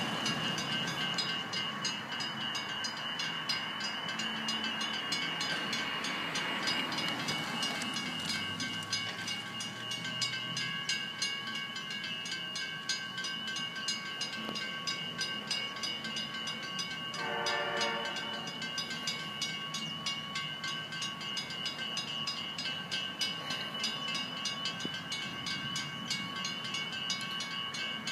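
Train passing a level crossing while the crossing's warning bell rings in a fast, steady rhythm throughout. A single train horn blast of about a second sounds about two-thirds of the way through.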